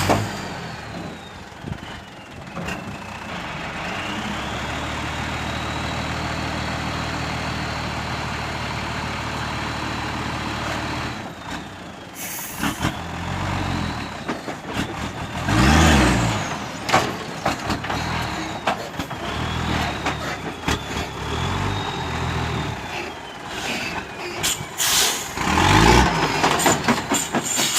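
Hino dump truck's diesel engine running steadily, then revved hard several times with the pitch rising and falling, and a high whine that glides up and down. A short burst of air hiss comes about halfway through.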